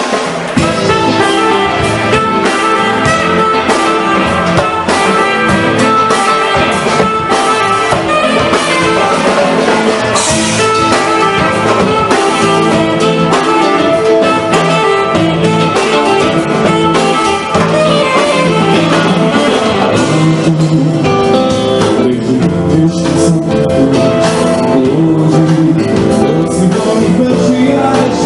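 A live band playing a song, with guitar and a drum kit.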